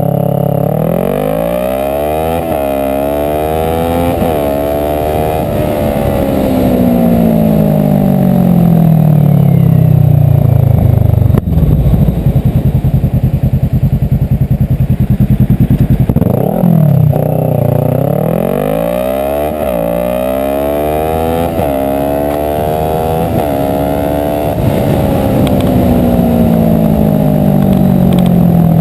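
Kawasaki ER-6N's parallel-twin engine accelerating hard through the gears, its pitch climbing and dropping back at each upshift, then winding down slowly as the bike slows. Midway it chugs at low revs, gives a quick rev, and runs up through the gears again before slowing a second time.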